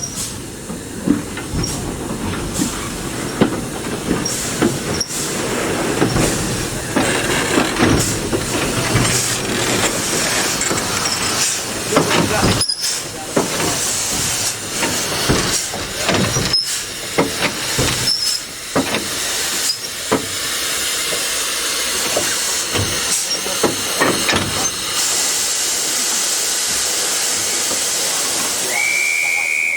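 Steam train running, with irregular clanks and knocks from wheels and coaches over a rumbling running noise. A steady hiss of steam comes up in the last few seconds, and a short high-pitched tone sounds just before the end.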